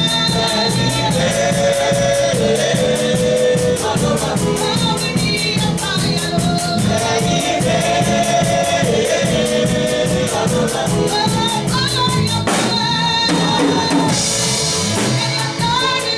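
Gospel worship song: voices singing a melody over a band with bass and a steady drum beat. About three-quarters of the way through, the bass drops out for a moment.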